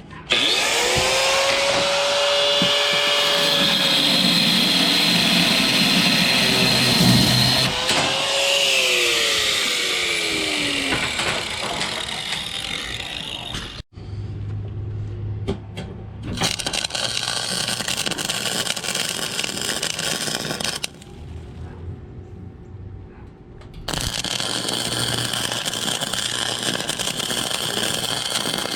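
Angle grinder spinning up and cutting through steel chain, its whine gliding down as it winds off about ten seconds in. Then a MIG welder arcs in two crackling runs of several seconds each, welding the chain link shut.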